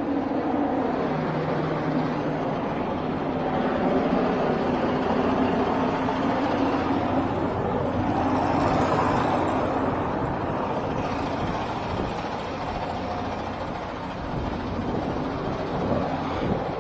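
Heavy diesel truck engine running steadily, swelling louder and brighter for a couple of seconds about halfway through.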